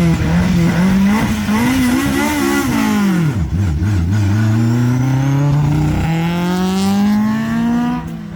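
Historic rally car's engine blipped up and down while held at the start of a special stage. The revs dip as it launches, then climb steadily as it accelerates away, with a gear change near the end.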